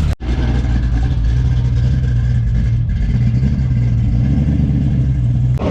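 A car engine running steadily, a low rumble, with a brief dropout just after the start.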